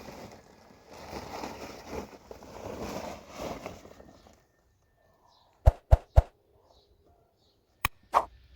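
Footsteps, a step roughly every half second to second, for about four seconds, then a pause and sharp clicks or knocks: three in quick succession past halfway and two more near the end.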